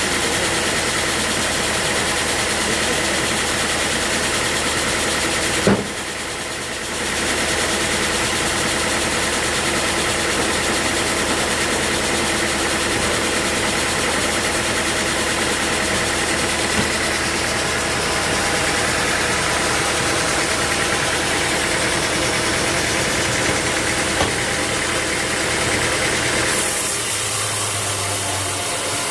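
Sawmill machinery running steadily with an engine-like hum. A single sharp knock comes about six seconds in and the sound drops for about a second; near the end it turns hissier, with less low rumble.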